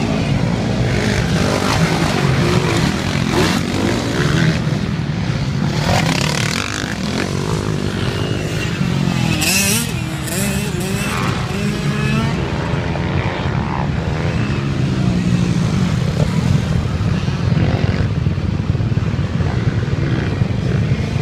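Motocross dirt bike engine running continuously.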